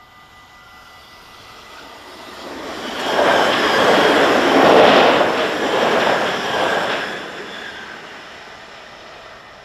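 Yellow Dutch diesel multiple-unit passenger train passing over a level crossing at speed: the rush of wheels and engine swells from about a second in, is loudest in the middle, and fades away over the last couple of seconds. The crossing's warning bell keeps ringing faintly underneath.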